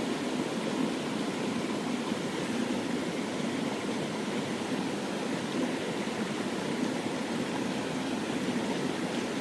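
Mountain stream water rushing over rocks: a steady, unbroken wash of sound.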